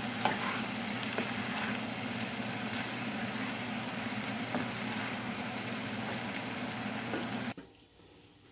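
Oyster mushroom and tofu stir-fry sizzling in a nonstick frying pan as it is stirred, with a few faint scrapes of the spatula. The sizzling cuts off suddenly near the end.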